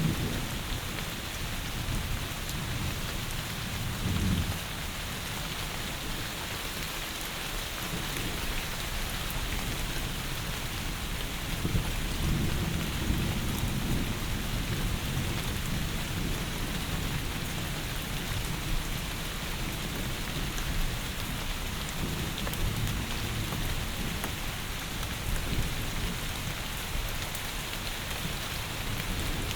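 Heavy rain falling steadily, with low rumbles of thunder swelling now and then: about four seconds in, for a couple of seconds past the twelve-second mark, and again in the last third.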